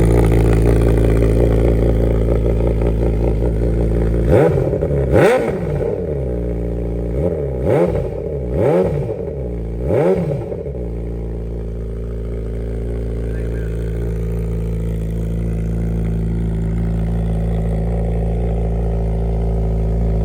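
2023 Suzuki Hayabusa's inline-four idling on a cold start through short exhaust tips in place of the factory mufflers. It is blipped five times between about four and eleven seconds in, each rev rising and dropping back to idle with no popping on deceleration.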